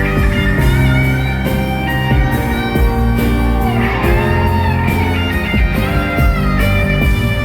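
Live band music: an instrumental passage led by electric guitar over a steady bass and beat, with no singing.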